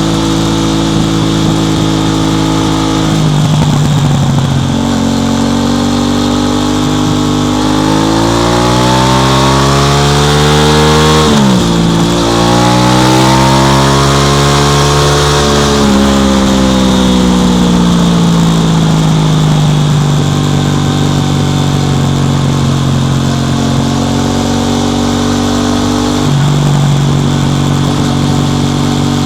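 Aprilia RS660 Extrema's parallel-twin engine pulling hard at highway speed with wind rush. The revs climb steadily, drop sharply at a quick upshift about eleven seconds in, then ease off and settle into a steady cruise.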